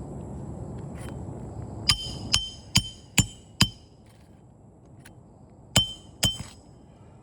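Hammer striking the steel driver of a roof snake to drive roofing nails under a shingle. Five sharp, ringing metallic strikes about half a second apart, then two more after a pause of about two seconds.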